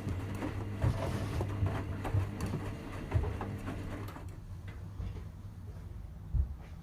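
Washing machine running a delicates wash: a steady motor hum with scattered knocks from the drum. The hum cuts off about four seconds in, leaving only fainter knocks.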